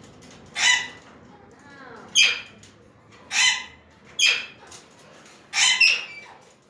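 Parakeets calling: five loud, harsh calls about a second apart, the last one doubled, over faint softer chirps.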